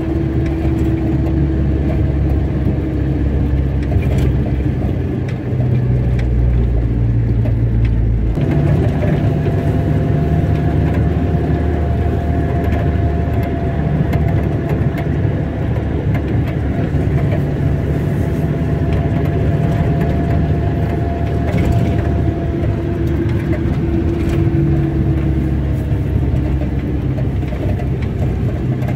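A car's engine and road noise, running steadily while driving; the engine note changes abruptly about eight seconds in.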